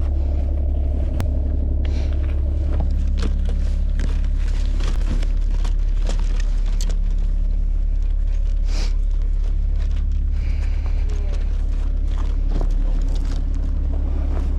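Car driving, a steady low rumble of engine and road noise with scattered light clicks and taps.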